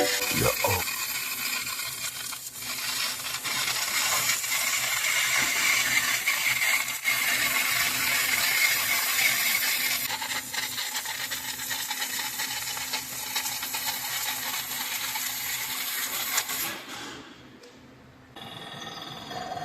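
CNC machine running a cut: a steady, hissy, high-pitched machining noise with a faint whine and fine ticking. It drops away about 17 seconds in, then a quieter machine sound resumes near the end.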